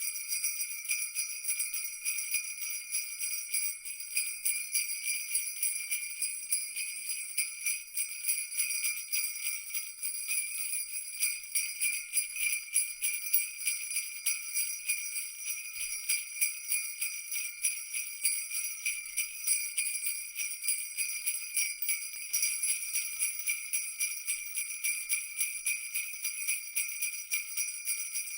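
Jingle bells shaken continuously, a steady bright jingling made of many rapid small rings, with no low sound beneath it.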